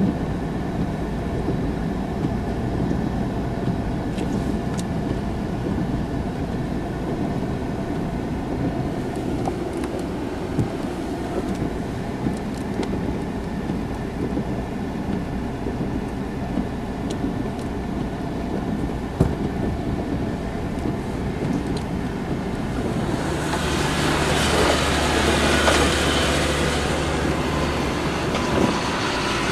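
Steady engine and road rumble of a car driving on snowy roads, heard from inside the cabin. A louder rushing noise rises for a few seconds near the end.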